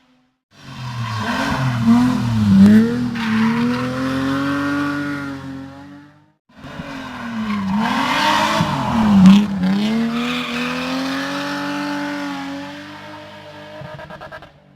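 Hill-climb race car engine driven hard, revs swinging sharply up and down with throttle blips and shifts, with some tyre squeal. Heard twice, the second pass starting after a short break about six seconds in and fading near the end.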